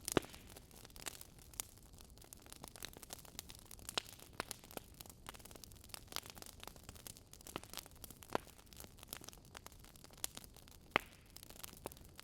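Campfire crackling: irregular sharp pops and snaps of burning wood, with two louder pops, one just after the start and one near the end.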